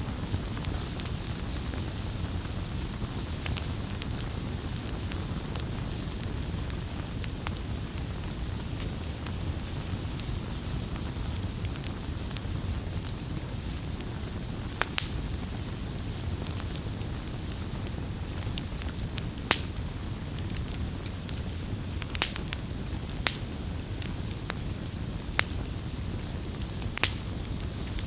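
Wood campfire burning: a steady low rumble of flames with irregular sharp crackles and pops, a few of them louder, snapping ones.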